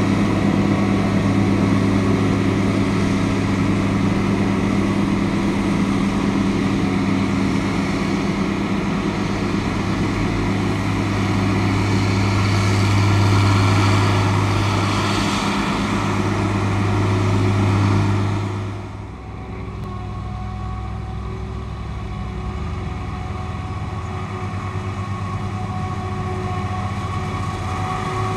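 Large agricultural machine's diesel engine running steadily under load, with a deep, even hum and a broad rushing noise above it. About two-thirds of the way through the sound drops off sharply, and the engine runs on more quietly.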